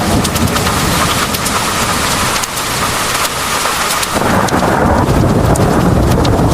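Heavy rain pouring down steadily, with sharp taps of individual drops striking close by, and thunder rumbling low underneath, swelling about four seconds in.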